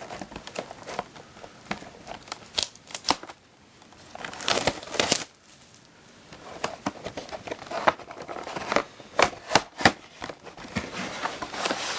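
Plastic wrapping being torn and crinkled off a trading card collection box: irregular crackles, rustles and tearing, with two short lulls, one about three seconds in and another about six seconds in.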